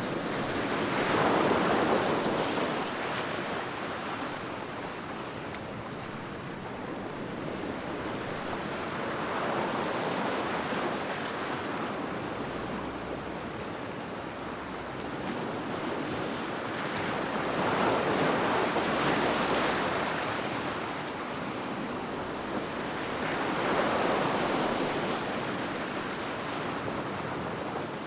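Sea waves breaking and washing on a shore, with about four swells of surf over the stretch, each rising and falling away.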